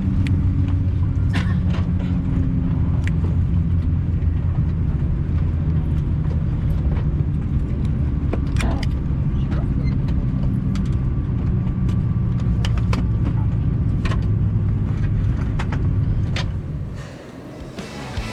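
Steady low rumble and hum of an airliner cabin, with scattered clicks and knocks. It fades out near the end.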